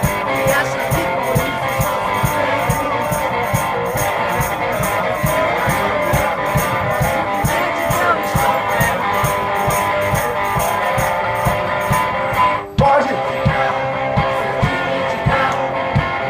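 Live one-man band playing: strummed electric guitar over a steady kick-drum beat with an even percussion pulse on top. The sound dips briefly about three-quarters of the way through.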